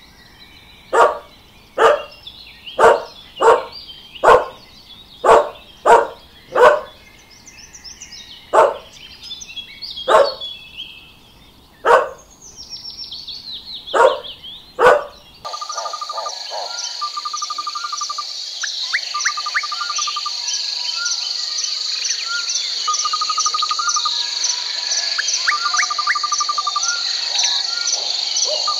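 Animal calls: about a dozen loud, short calls, roughly one a second, over background birdsong. About halfway through this gives way abruptly to a steady, high chirring chorus with repeated short trills.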